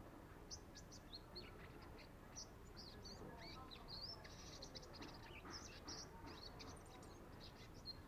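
Young sunbirds practising their song: a faint, rapid run of short, high chirps and quick rising and falling notes.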